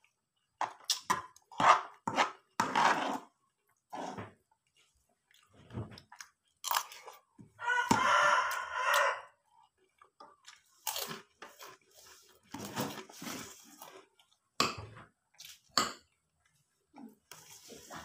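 Close-up chewing and crunching of crisp food in short, irregular bites. About eight seconds in, a rooster crows once for over a second.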